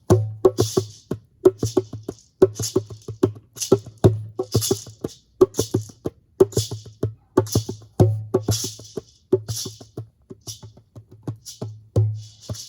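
Djembe played by hand in a steady, driving rhythm, mixing deep bass strokes with sharp, bright slaps, with several strokes to each beat; the drumming ends near the end.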